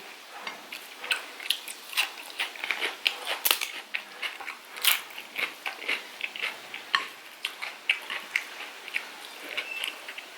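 Close-miked chewing and mouth sounds of someone eating chicken curry: irregular wet smacks and clicks, several a second.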